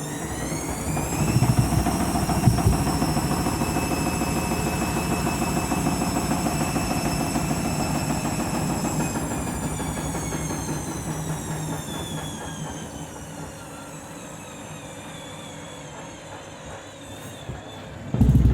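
Candy washing machine's motor whining up to speed as the drum begins an interim spin with a heavy towelling load, knocking a few times as it picks up speed. It holds at speed for several seconds, then winds down, the whine falling as the drum coasts. A loud thump comes near the end.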